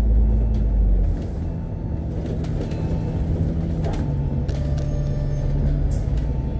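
A double-decker bus's diesel engine and low rumble, heard inside the cabin. The engine note holds low and steady after easing off as the bus slows for a stop. There is a sharp knock or rattle about four seconds in.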